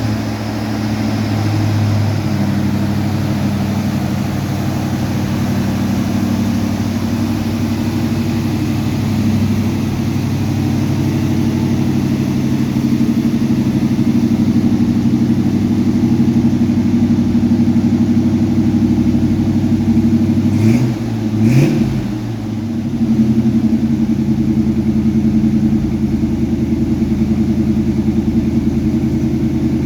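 1948 Chevrolet pickup's engine running steadily. About two-thirds of the way through it revs up and back down briefly twice, then settles into a steady run that is a little louder than before.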